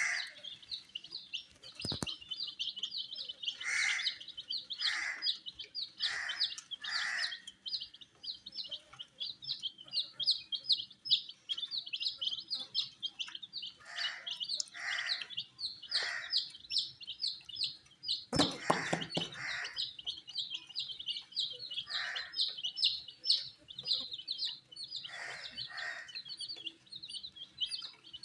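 A group of baby chicks peeping rapidly and continuously, with louder single calls standing out now and then. There are a couple of sharp knocks, about two seconds in and again past the middle.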